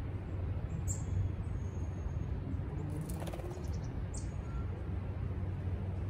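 A few short, high bird chirps, about a second in and again around four seconds, with a brief patter of clicks near the middle, over a steady low rumble.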